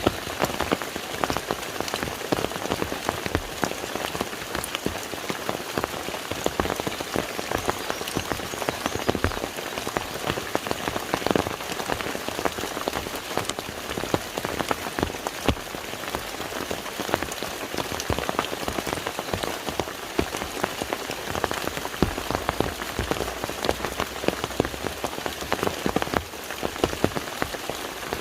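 Steady rain falling on a lake's surface: an even hiss dotted with many individual drop ticks.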